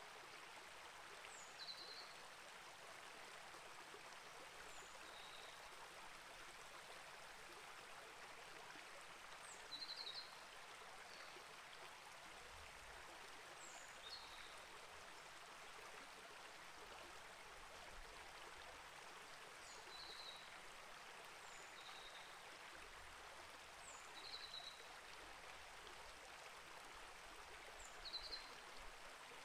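Small rainforest creek flowing in a quiet, steady rush. Short high bird chirps sound every few seconds above it.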